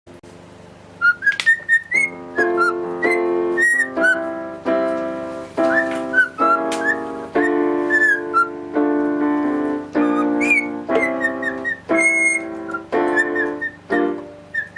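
A small pet bird whistling and chirping in short, bending notes over keyboard chords played in a steady sequence; the chords come in about two seconds in.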